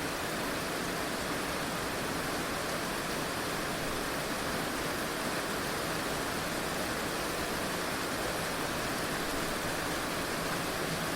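Heavy rain falling steadily, an even hiss of rain with no single drops standing out.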